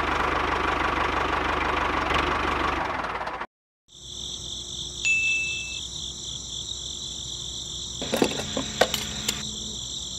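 A motor or engine sound running steadily with a low buzzing pulse, cut off abruptly about three and a half seconds in. After a short silence comes a steady high-pitched whine, with a brief higher beep about five seconds in and a few clicks near the end.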